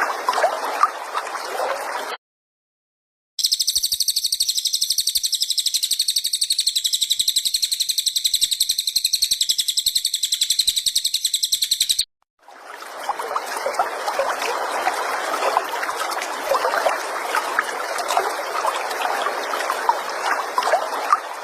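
A high-pitched, very rapid buzzing bird trill runs for about eight seconds. Before and after it is a steady trickling-water sound. The sections are joined by abrupt cuts, as in a spliced song-tutoring track.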